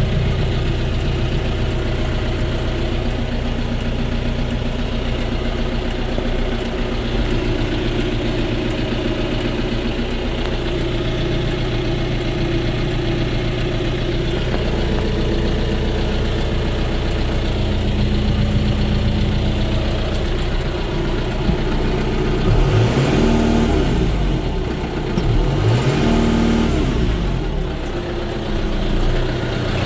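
2017 John Deere 5100M tractor's four-cylinder diesel engine running steadily at idle, then revved up and let back down twice near the end.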